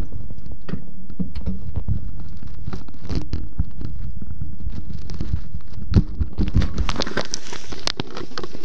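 Strong wind buffeting the microphone: a heavy low rumble full of crackling pops. The crackle gets louder and brighter from about six seconds in.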